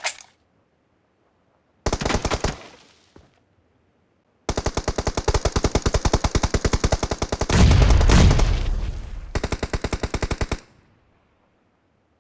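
Video game automatic gunfire, rapid evenly spaced shots. A short burst comes about two seconds in, then a long burst from about four and a half to ten and a half seconds in, with a heavy low boom partway through.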